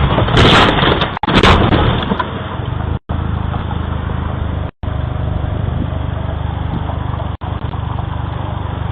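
Car driving noise recorded from inside a vehicle: a loud, noisy first second and a half, then a steady engine and road rumble, broken by four brief silent gaps.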